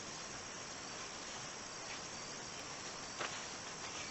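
Steady background chorus of insects chirping, with a faint tick about three seconds in.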